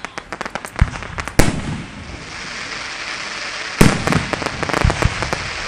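Fireworks going off: a string of sharp bangs and cracks, the loudest about a second and a half in and again near four seconds in, over a steady crackling hiss from burning effects.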